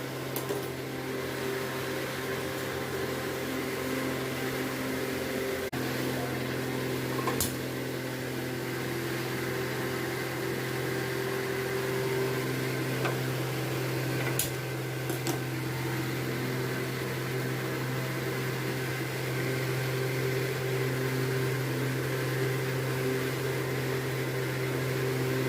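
Steady low mechanical hum, like a small electric motor or fan running, with a few faint clicks.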